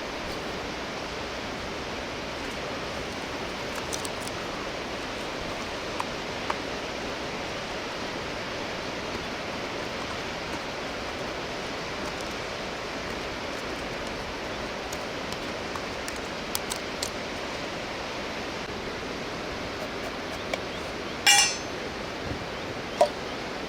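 Steady rush of flowing river water, with a few scattered sharp clicks and a brief rattling clink about three-quarters of the way through.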